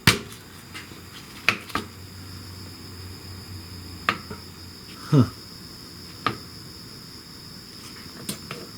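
A few sharp, separate clicks and taps of metal parts being handled during motorcycle work, over a steady high-pitched tone.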